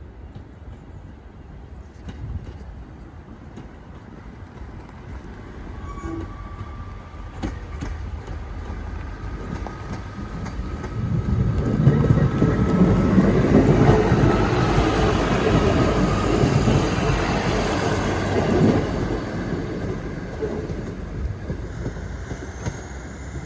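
Class 150 Sprinter diesel multiple unit pulling away, with a thin whine rising slowly in pitch as it accelerates. The train is loudest as it passes about halfway through, then fades.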